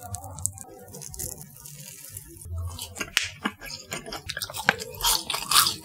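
A mouthful of chewy, spicy latiao wheat-gluten stick being bitten and chewed, with soft, moist clicks. The chewing is sparse at first and grows busier after about three seconds.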